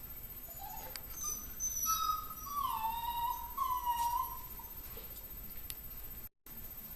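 Puppy giving a high, drawn-out whine lasting a couple of seconds, its pitch sliding down and then stepping back up.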